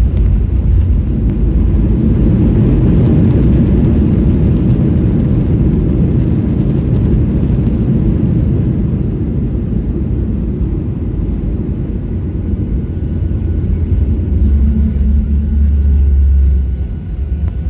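Boeing 737-800 cabin noise from a window seat: the engines and airframe make a loud, steady low rumble. It eases somewhat after about eight seconds, and a deeper steady hum comes in for a couple of seconds near the end.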